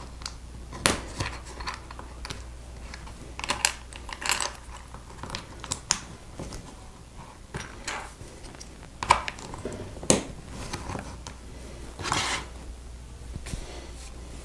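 LEGO plastic bricks and plates clicking and clattering as they are handled and pressed together, in irregular sharp clicks and short rustles.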